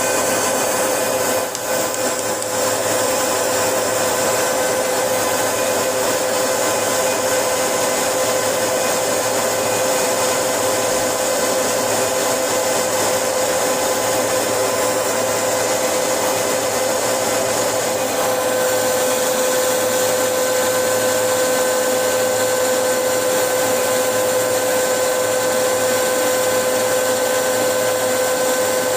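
Metal lathe running steadily, a constant hum with a steady whine. The pitch shifts slightly about 18 s in, when a higher tone joins.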